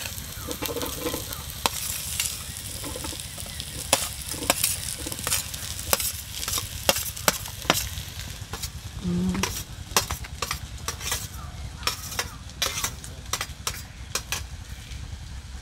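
Fried potatoes and onions sizzling in a pan of hot mustard oil while being stirred, with frequent sharp taps and scrapes of the stirring utensil against the pan over a steady sizzle.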